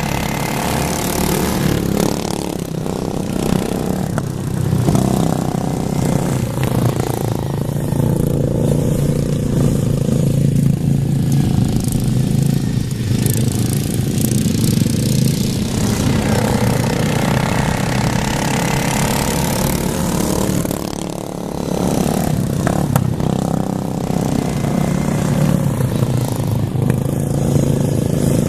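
Racing lawn mowers' small engines running, a loud steady drone whose loudness rises and falls a little.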